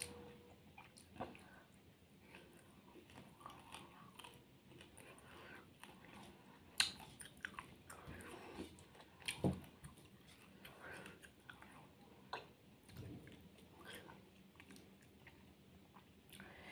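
Faint chewing and biting by a person eating fried fish with her fingers, with small crunches and scattered clicks. The sharpest clicks come about 7 and 9.5 seconds in.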